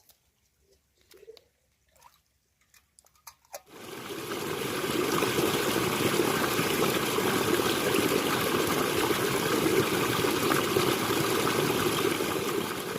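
Liquid pouring in a steady stream, starting about three and a half seconds in after a few faint clicks and running evenly for about nine seconds before stopping.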